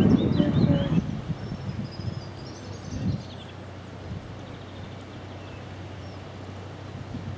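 Faint birdsong, short high chirps and a thin whistle, over a steady low outdoor background hum. A louder low-pitched rumble fills the first second.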